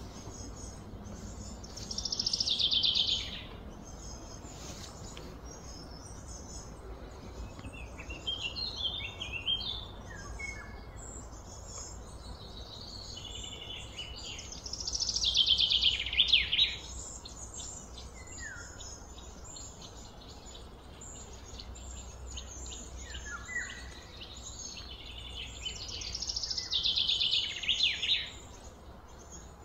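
A bird sings a loud, falling phrase about a second long three times, roughly every twelve seconds, with shorter chirps between. A fast, steady insect buzz and a low outdoor rumble run underneath.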